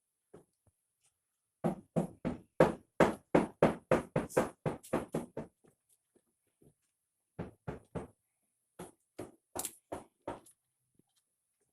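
Rapid, sharp knocking, about four strikes a second, in two runs: a long loud run and, after a short pause, a shorter one.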